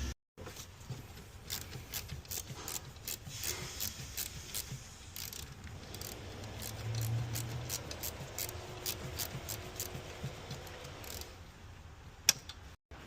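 Hand tools being worked on engine parts: irregular sharp clicks and light metallic rattles, a few a second, with a louder single click near the end.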